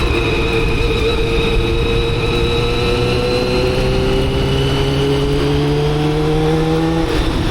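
Motorcycle engine pulling under acceleration, heard from the rider's position: the note holds, then climbs steadily from about three seconds in. It breaks off briefly near the end and picks up again.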